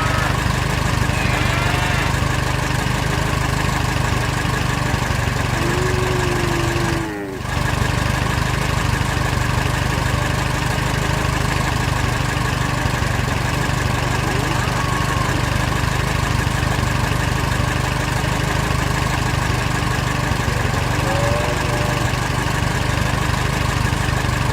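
A steady engine running, with a brief dip about seven seconds in. A few faint, short gliding chirps sound over it.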